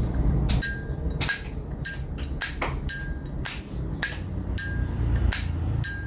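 Vintage Zippo lighter being flicked open and snapped shut over and over: about a dozen sharp metallic clicks, roughly two a second, each with a brief bright ring. The lighter's hinge, cam and mechanism are original and unadjusted.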